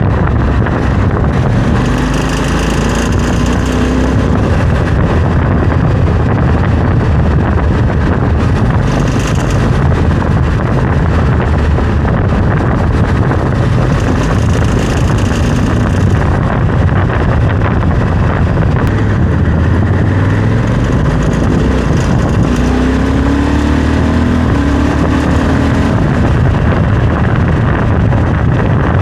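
Honda Africa Twin CRF1100L's parallel-twin engine running on the move, its pitch rising and falling, under steady wind noise, with brief spells of higher-pitched rattle. These are the strange noises that the owner suspects come from the crash bars or skid plate.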